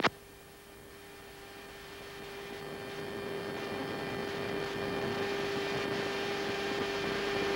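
Steady electrical hum over a hiss, in an aircraft cabin or on its intercom, growing gradually louder, after a click as the radio call cuts off.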